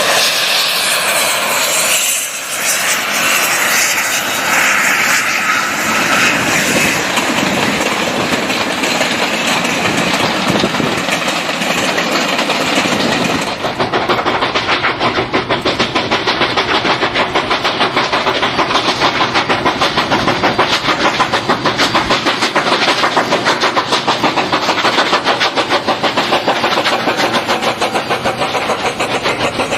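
A train running: a loud rushing noise, then from about halfway a steady, fast rhythmic beat of roughly three pulses a second.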